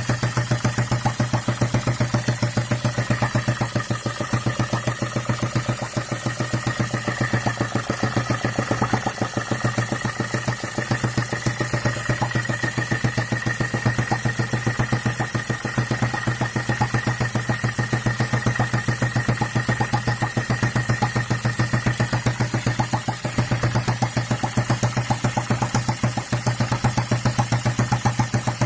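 Four-stroke gasoline engine on its first run, running steadily with an even, rapid firing beat. A faint high whine sounds over it for much of the time.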